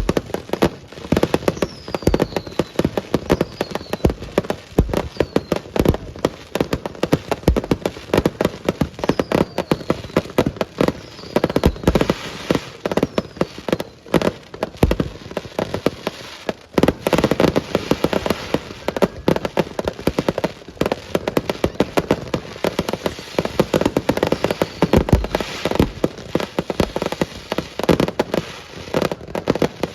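Fireworks display: a dense, continuous run of bangs and crackling, with a few short whistles falling in pitch.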